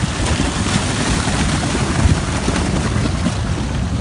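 Loud, steady rushing of a mudslide, a fast surge of water, mud and rocks pouring down.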